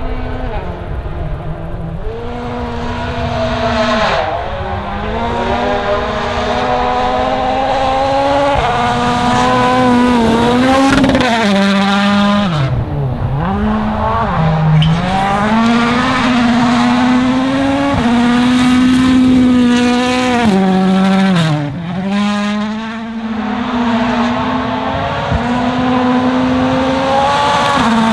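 Toyota Yaris WRC rally car's turbocharged four-cylinder engine driven hard, revs climbing through the gears and dropping sharply several times as it shifts and brakes.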